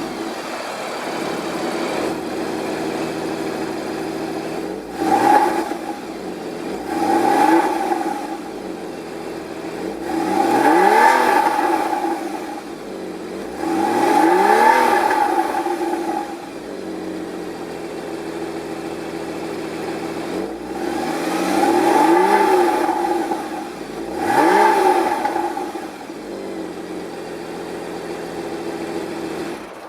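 Porsche Cayman S (981) 3.4-litre flat-six idling from its exhaust and being revved about six times, each rev rising and falling in pitch, a few of them held for a second or two before dropping back to idle.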